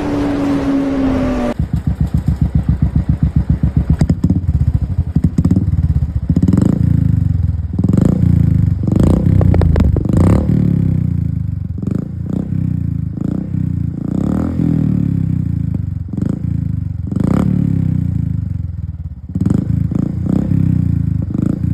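Modified Royal Enfield Bullet's single-cylinder engine running through a loud aftermarket Cobra silencer, idling with a fast even thump and blipped with the throttle about a dozen times in sharp revs.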